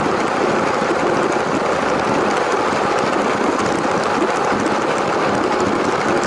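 A LEGO train running steadily along its track: an even whirring rattle of the small electric motor and plastic wheels, with no change in speed.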